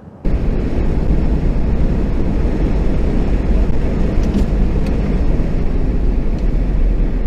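A motor vehicle driving, with a loud, steady rumble of road and engine noise that cuts in suddenly about a quarter second in.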